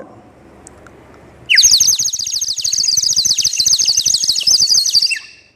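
Water-filled toy bird whistle blown, giving a loud, fast warbling trill like birdsong: air bubbling through the water breaks the high whistle tone into rapid chirps. It starts about a second and a half in and stops near the end.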